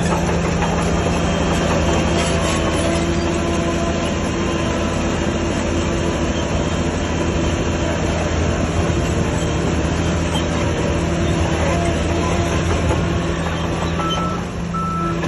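Diesel engine of heavy earthmoving machinery running steadily under load, with a constant low engine drone over a broad mechanical noise.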